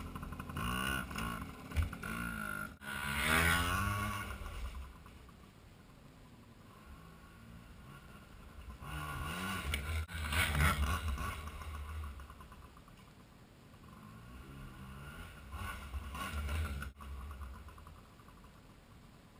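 Yamaha PW80 pit bike's small two-stroke single engine revving up and down as it is ridden around. It swells loud three times as it passes close (at the start, about halfway and near the end) and fades between.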